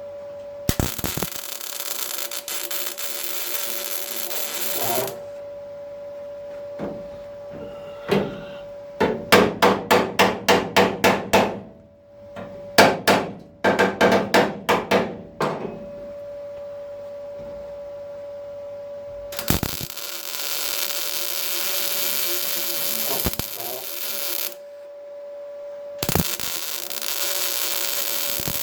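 MIG welder crackling as it lays welds on thin car-body sheet steel, in three long runs. Between them come two series of short sharp pulses, about four a second. A steady hum runs underneath.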